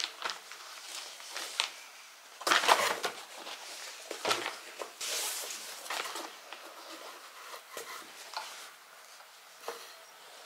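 Household objects being handled: a string of irregular knocks and clatters mixed with rustling and crinkling, loudest in a burst about two and a half seconds in.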